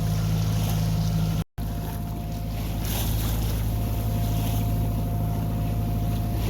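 A sailboat's inboard engine running steadily under way, with a constant low hum over the rush of wind and water. The sound drops out briefly about one and a half seconds in, then carries on the same.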